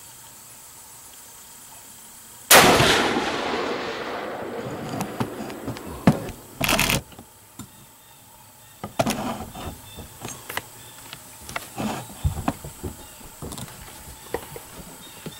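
A single high-powered hunting rifle shot about two and a half seconds in, its report echoing and rolling away over several seconds. Afterwards come a short burst of clatter and scattered clicks and knocks from handling.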